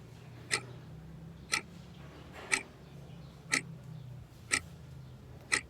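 A clock ticking once a second, six even ticks, over a faint steady low hum.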